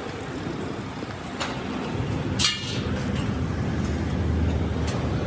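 A machine runs with a steady low hum. About halfway through there is one short, loud hiss or release.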